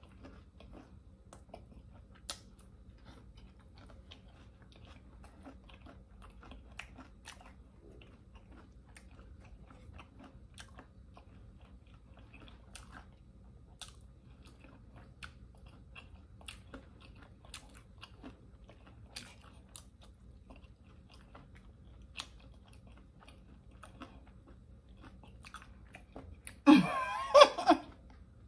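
A person chewing a mouthful of soft flour-tortilla taco filled with chicken liver, with faint, irregular mouth clicks and smacks. Near the end there is a brief, louder vocal sound.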